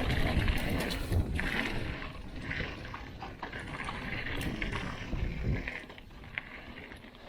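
Mountain bike riding fast down a dirt trail: tyre noise and a low rumble with scattered rattling clicks from the bike, easing off near the end.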